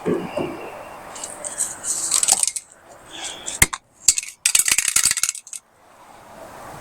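Aerosol bed-liner spray can: short hissing spray passes, and the can's mixing ball rattling rapidly as it is shaken.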